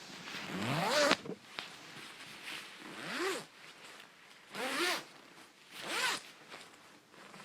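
Metal zipper of a 66°North coat being zipped in four quick strokes, spaced a second or two apart. Each stroke is a short zip that rises and falls in pitch. The first, about a second in, is the loudest.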